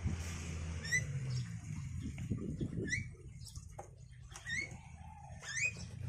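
A bird giving several short, rising chirps a second or two apart, over a steady low hum.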